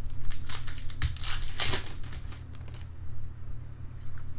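Crinkling and rustling of trading-card pack wrappers and cards being handled, a quick run of papery crackles that is busiest in the first two seconds, over a steady low hum.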